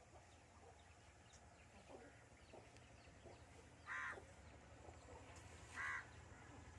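Aseel chicken giving two short, loud calls about two seconds apart, over faint low background hum.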